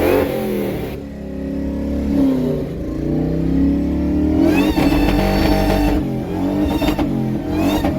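Supercharged Ford F-150 Harley-Davidson Edition V8 being revved repeatedly, its pitch rising and falling. Sharper revs about halfway through and near the end bring a high rising whine.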